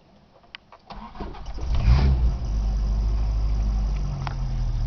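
A 1986 Isuzu Trooper II's carbureted 2.3 L 4ZD1 four-cylinder engine is cranked and fires up about two seconds in, then keeps running steadily. A couple of short clicks come before the cranking. The owner is chasing an erratic idle and a tick in this engine.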